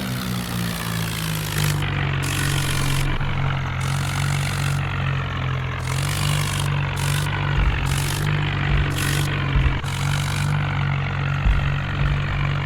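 Massey Ferguson tractor's diesel engine running at a steady speed.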